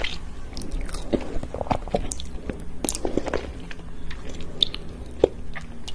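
Close-up chewing and biting of a chocolate-glazed dessert, with irregular wet mouth clicks and smacks and a few crunches.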